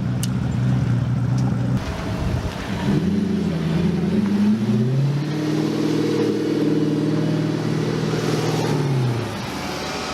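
A car engine running, its revs climbing over a couple of seconds, holding high for about four seconds, then dropping off near the end.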